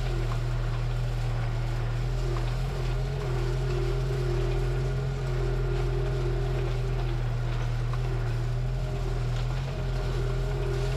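Tractor engine running steadily under load, a deep even drone with a fainter wavering whine above it.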